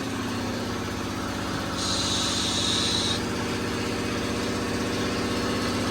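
A vehicle engine idling with a steady low hum, and a burst of hiss about two seconds in that lasts a little over a second.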